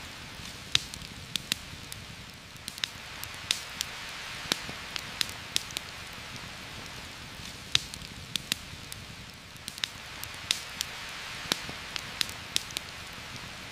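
Steady rain with the irregular crackle and sharp pops of a campfire scattered through it.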